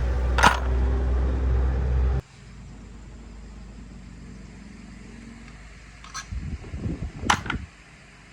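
A machine's motor runs steadily with a low hum and stops abruptly about two seconds in. A quieter hum carries on, and near the end come several metallic knocks and clicks.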